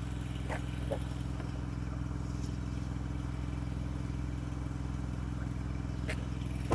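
An engine running steadily at an even speed, with a few faint clicks and a sharp knock near the end.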